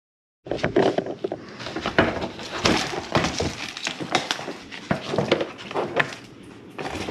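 Irregular clatter of hard plastic and metal parts being knocked and handled under the hood, a quick run of sharp knocks starting about half a second in.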